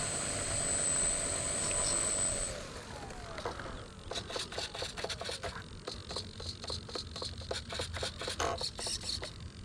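Electric motor and propeller of an RC Cessna 182 running steadily with a high whine, then winding down about two and a half seconds in. After that comes a run of irregular clicks and crackles.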